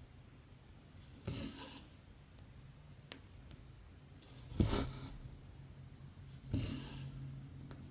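Cotton embroidery thread drawn through 14-count cross-stitch fabric, three short rasping swishes a couple of seconds apart, with a faint tick between the first two.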